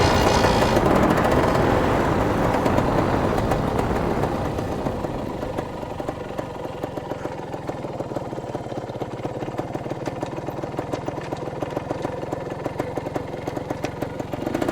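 Dirt bike engine running, loud at first and dropping over the first six seconds to a steady idle, with its firing pulses beating evenly.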